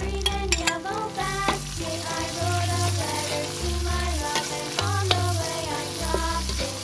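Food sizzling as it fries in a hot pan, the hiss coming in about a second in, under background music with a steady bass line.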